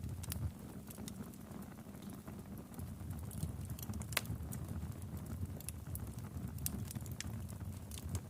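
Wood fire crackling in a fireplace: a low steady rumble of flames with irregular sharp pops and snaps, the loudest a little past four seconds in.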